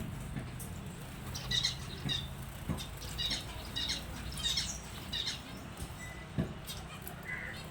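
Finches calling with short, high chirps repeated about twice a second, with a few soft wing flutters.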